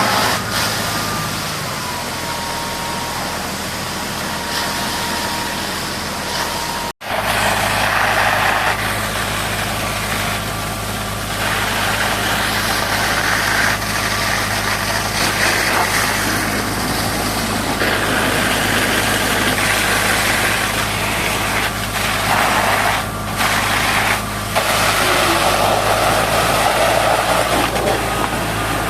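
Heavy diesel engine of earthmoving equipment running steadily near idle, with patches of hissing noise that come and go over it. The sound drops out briefly about seven seconds in.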